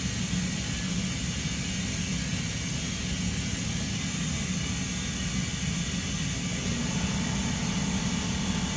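Air compressor running steadily with a low hum and an even hiss, inflating a truck tire that has just been plugged.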